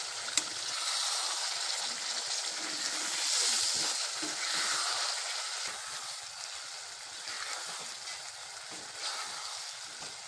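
Masala paste sizzling as it fries in hot oil in a kadhai, stirred and turned over with a spatula. The hiss swells and eases with the stirring, with one sharp tap about half a second in.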